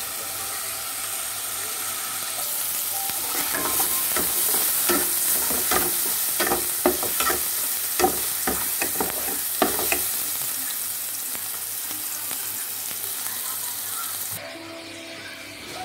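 Chopped aromatics sizzling in hot oil in a metal wok while a steel ladle stirs them, scraping and knocking against the pan in a run of sharp clicks through the middle. The sizzle drops away suddenly near the end.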